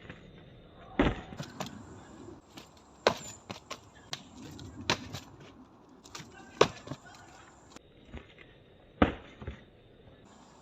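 Karate strikes landing on a dry, dead tree trunk: five hard knocks roughly two seconds apart, with lighter knocks between them.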